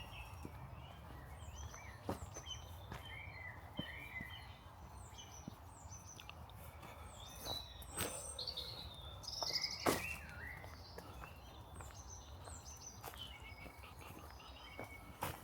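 Small songbirds chirping and singing in many short, repeated calls over a steady low background rumble, with a few sharp clicks, the loudest about ten seconds in.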